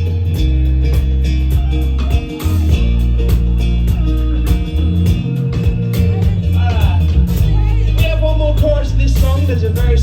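Live pop-rock band playing loudly through a concert PA: electric guitar, bass and a steady drum beat, with a wordless sung line coming in over it in the second half.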